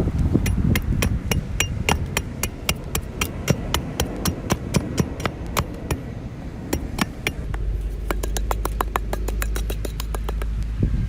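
A small hammer tapping repeatedly on small pieces of a miniature build, with sharp light taps about three to four a second. Past the middle the taps come quicker and lighter, over a low steady hum.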